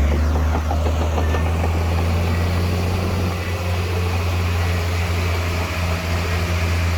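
Diesel engine of heavy earthmoving machinery running steadily, a low even drone with no change in pitch.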